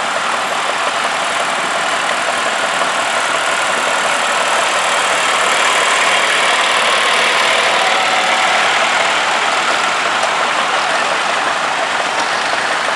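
Vintage tractor engines running as tractors move past in a parade, the sound swelling a little in the middle.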